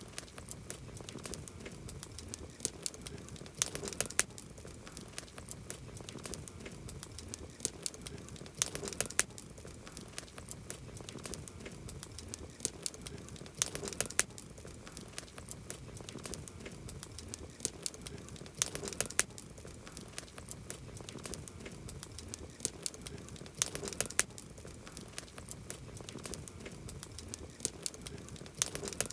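Wood campfire crackling, with a steady scatter of sharp pops and snaps over a low hiss and a cluster of louder pops about every five seconds.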